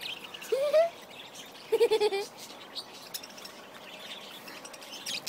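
Feeding birds chattering with scattered high chirps and clicks. Two louder, lower pitched calls stand out: a rising one about half a second in and a short wavering one about two seconds in.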